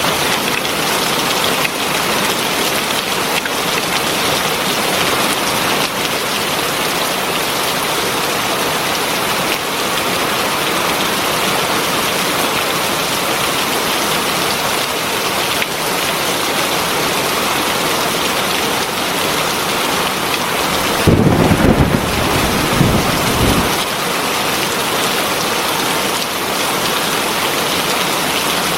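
Heavy rain falling steadily, a dense even hiss. Near the end a low rumble swells for about two seconds and dies away.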